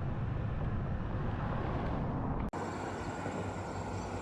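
Steady low rumble of road traffic and wind noise while cycling, with no speech. It breaks off abruptly about halfway through and carries on as a steadier hum.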